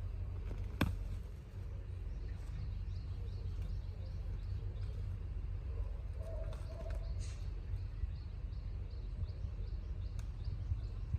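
Faint birds chirping over a low steady rumble, with one sharp click about a second in.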